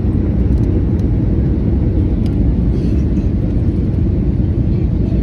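Steady, loud low rumble of an airliner during landing, heard from inside the cabin: engine and airflow noise with no distinct tones.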